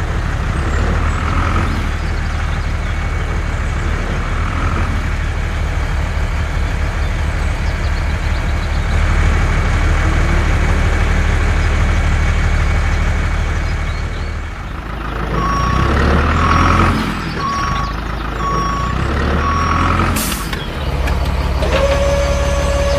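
Truck engine running steadily, then a reversing beeper sounding a series of evenly spaced beeps, followed by a short hiss like an air brake release and a steady tone near the end.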